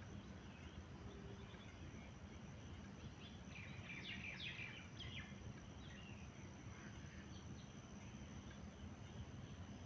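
Faint wild birdsong: scattered chirps, with a quick run of short falling notes about three to five seconds in, over a steady low outdoor rumble and a thin steady high tone.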